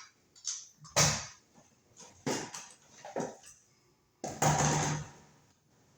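Handling noises: a string of sharp knocks and clicks, the loudest about a second in, and a longer rasping scrape a little over four seconds in.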